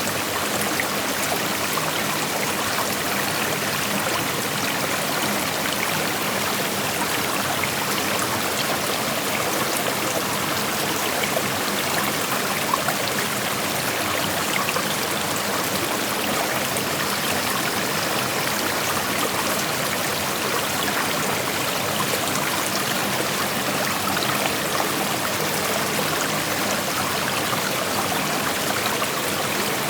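Creek water flowing steadily, an even rushing sound with fine trickling, unchanging in level.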